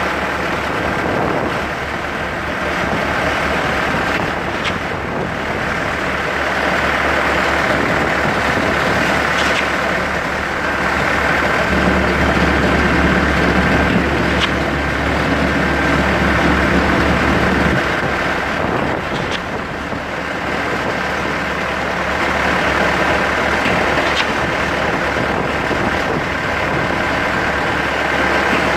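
Steady engine and traffic noise from motor vehicles, with a deep low hum and a few brief clicks.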